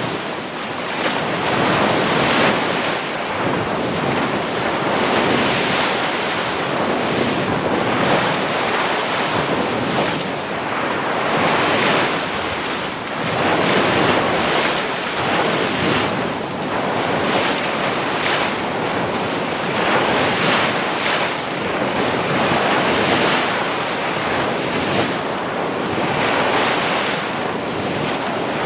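Ocean waves breaking and washing in, a continuous rush of surf that swells and eases every few seconds, with some wind noise on the microphone.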